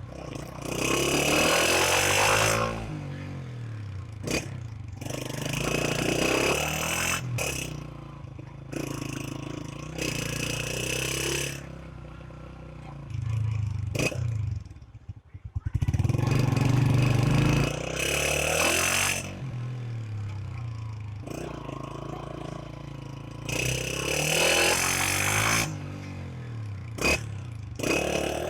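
Honda CG125's single-cylinder four-stroke engine riding at low speed, revving up and easing off again and again as the gears change. About halfway through it briefly drops away almost to nothing.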